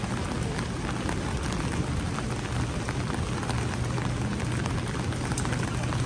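Steady rain falling on street surfaces: an even hiss dotted with many small drop ticks, over a steady low hum.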